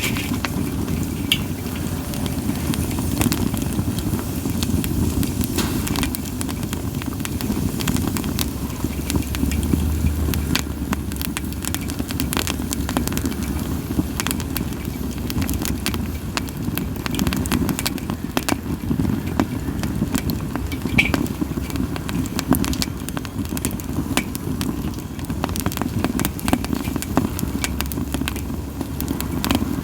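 Split sawtooth oak (kunugi) firewood burning in a campfire: a steady low flame noise with frequent sharp crackles and pops at irregular intervals.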